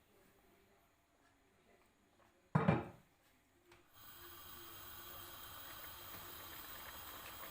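A single heavy thump about two and a half seconds in, then, from about four seconds in, a steady hissing sizzle of a pot starting to cook on the stove.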